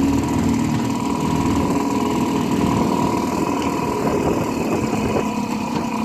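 1955 Johnson CD-12 5.5 hp two-cylinder two-stroke outboard motor running steadily at low throttle.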